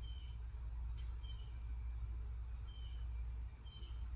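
Insects trilling in one steady, unbroken high-pitched drone over a low background hum, with a few faint short chirps.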